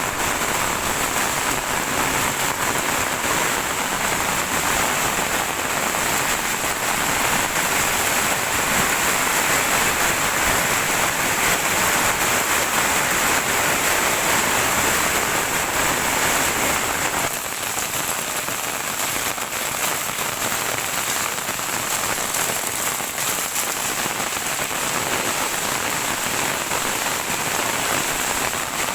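Heavy rain falling steadily, an even wash of noise with no thunder claps heard. A little past halfway it turns abruptly slightly quieter and thinner.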